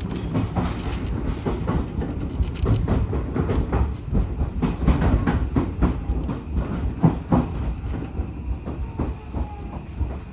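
Odakyu 1000 series electric train running on the rails, heard from inside: a steady low rumble with many wheel clicks over rail joints. The clicks thin out near the end.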